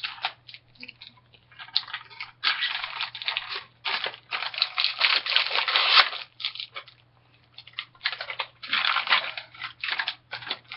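Lil' Dippers snack packaging being handled and opened by hand: crinkling and tearing in irregular bursts, with a few short clicks in between.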